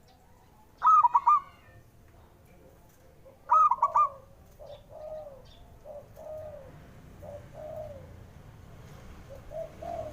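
Zebra dove (perkutut) singing: two loud, quick bursts of about three coo notes, about a second in and again near four seconds. A run of softer, lower coos follows.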